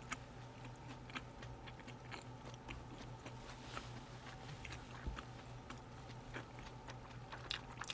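Faint close-mic mouth sounds of a person eating and drinking: scattered small wet clicks of chewing, sipping and swallowing, over a low steady hum.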